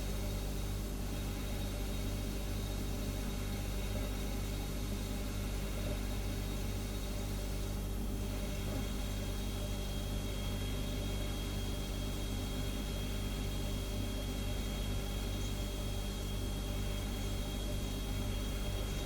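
Refrigerator humming steadily: a low, even hum with a faint high steady whine that comes in about eight seconds in.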